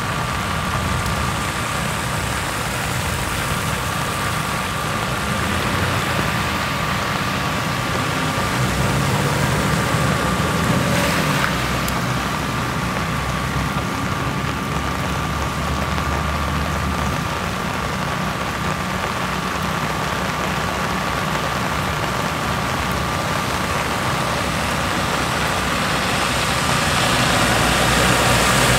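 Steady running of a motor vehicle's engine, with a constant high whine over it and an even hiss.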